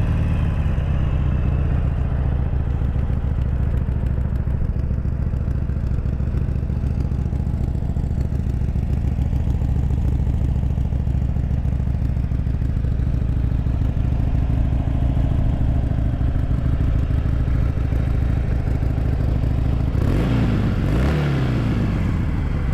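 2015 Harley-Davidson Sportster 883 Iron's fuel-injected 883cc V-twin idling steadily through its stock chrome staggered pipes, freshly started. Near the end the throttle is blipped, the engine revving up and settling back to idle.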